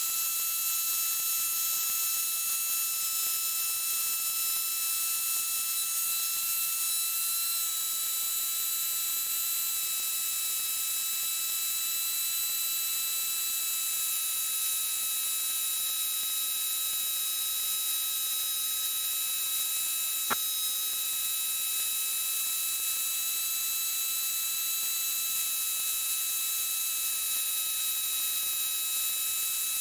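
Steady electronic hiss with a faint steady whine on the Cessna 152's headset and intercom audio feed between radio calls, with a single sharp click about twenty seconds in.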